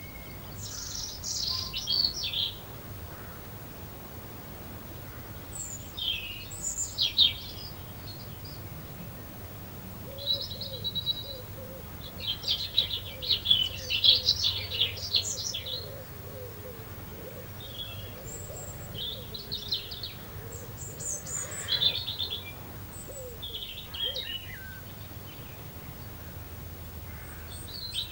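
Small garden birds chirping and twittering in scattered bursts, busiest about halfway through, over a faint steady background hum.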